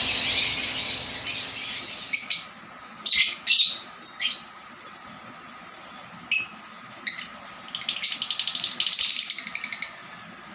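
Lovebirds calling: dense shrill chatter for the first two seconds, then single sharp squawks spaced about a second apart, and a quick rapid run of chirps near the end.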